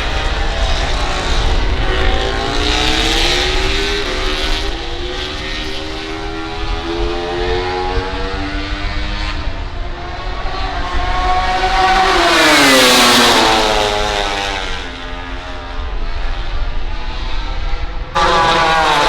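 MotoGP racing motorcycles running at high revs on the circuit, their engine pitch climbing and dropping through the gears. One bike passes close about two-thirds of the way in, the loudest moment, with its pitch falling sharply as it goes by. Near the end the sound jumps abruptly to another loud engine note.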